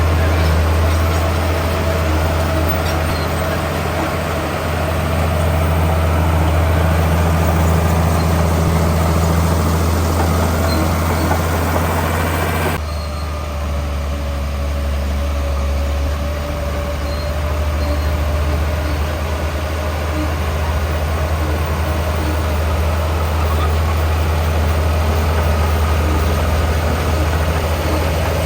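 Heavy diesel engine of earth-moving machinery running steadily under work, a deep continuous rumble, with a sudden shift in the sound about halfway through.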